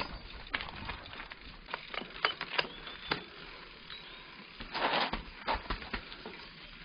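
Mountain bike rolling over a rough forest singletrack: scattered clicks and knocks of the bike rattling over roots and rocks, with a short noisy rush of tyres on dirt about five seconds in.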